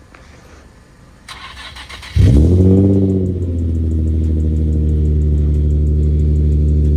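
Acura TSX's 2.4-litre four-cylinder engine cranking briefly, then catching with a short rev flare about two seconds in, and settling into a steady idle. The idle is no longer rough now that the misfire has been fixed.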